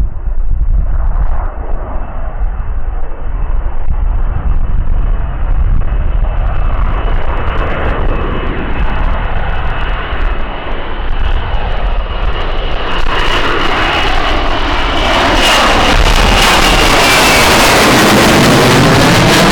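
Jet aircraft approaching the runway, its high engine whine and rushing noise growing steadily louder. The noise swells sharply about two-thirds of the way in and peaks near the end as the aircraft passes.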